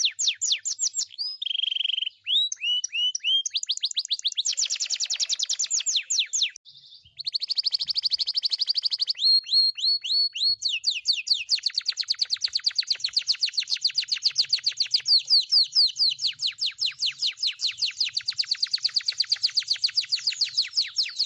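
Bird song: long runs of fast, sharp chirps repeated many times a second, in a high trill, with a short break about seven seconds in.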